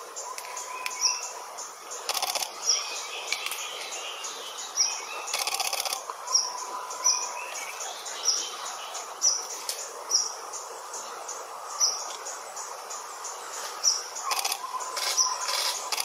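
Forest birds calling: one repeats a short, sharp high note every second or two, and a long steady whistle at a lower pitch comes three times. Insects give three short rattling spells.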